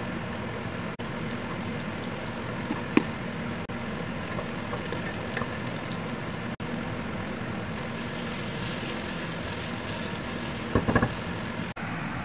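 Chopped onion, garlic and bacon frying in oil in a pot, a steady sizzle, with a wooden spatula knocking against the pot about three seconds in and several times near the end.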